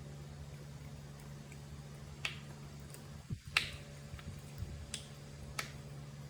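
A handful of short, sharp clicks, irregularly spaced, the loudest about three and a half seconds in, over a steady low hum.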